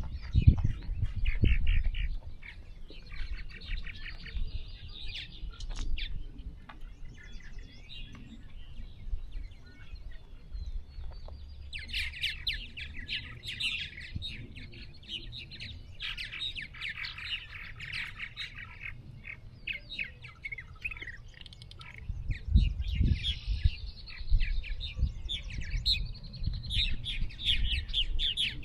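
Several songbirds singing and chirping, with quick trills that grow dense from about halfway through, over low thumps underneath.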